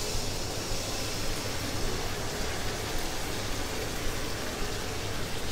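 Yogurt-marinated chicken poured into hot mustard oil and fried onions in a kadai, sizzling steadily as it hits the oil.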